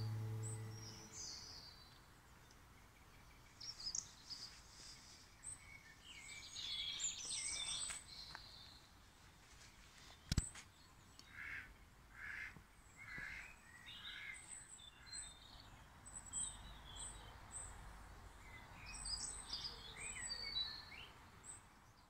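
Songbirds singing and chirping faintly over a steady outdoor background hiss, with many short calls throughout. A guitar note dies away in the first second, and there is one sharp click about ten seconds in.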